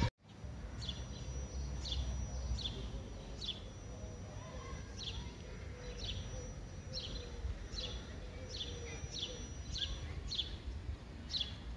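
Street ambience with a low steady background rumble and a small bird chirping over and over, short high chirps that fall in pitch, about one to two a second. A faint high steady whine runs under most of it.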